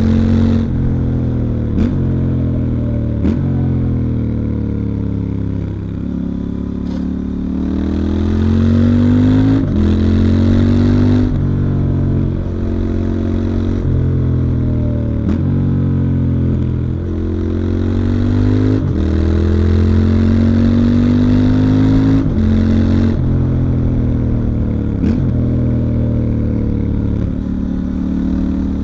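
Stock 2019 Triumph Scrambler 1200 XE's 1200 cc parallel-twin engine and exhaust running under riding load. The engine note rises and falls several times, with brief breaks at about ten gear changes.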